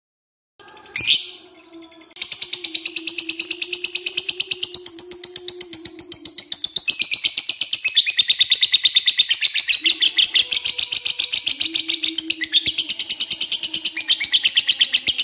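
Lovebird giving its long 'ngekek' chatter: a rapid, even, unbroken trill of high notes that starts about two seconds in and runs on without a break. A sharp click comes just before it.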